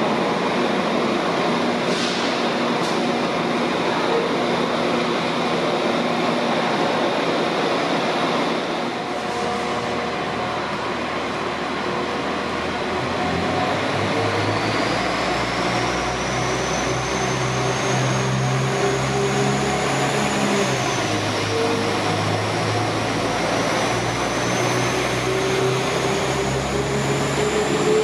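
Northern multiple units running through Preston station. First a Class 319 electric unit rumbles along the platform with station noise. Then a Northern CAF Civity unit comes up the platform and passes close, its drive making a rising whine over a low hum that drops back about 21 s in and climbs again.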